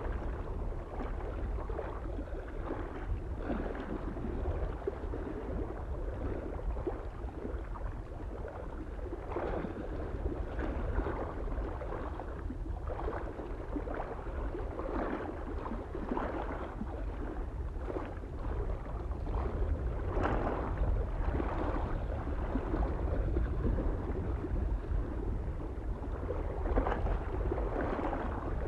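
Small waves lapping and splashing irregularly against a lake shore, with a steady low rumble of wind on the microphone underneath.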